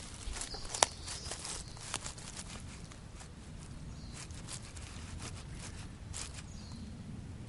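Footsteps crunching on a trail, with sharp clicks that are dense for the first two seconds and then thin out. A few short high chirps of a bird are heard over a low outdoor rumble.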